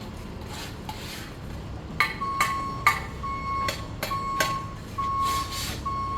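A reversing alarm beeping steadily at one pitch, about one beep a second, starting about two seconds in, over sharp metallic taps and scrapes of a mason's trowel on concrete block.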